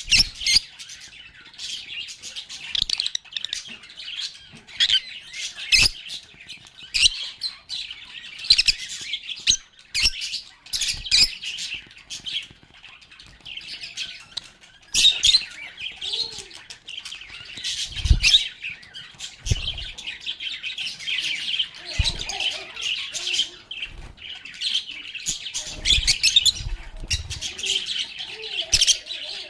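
A group of lovebirds chattering and chirping continuously in high, busy calls, with many sharp clicks among them and a few low thumps in the second half.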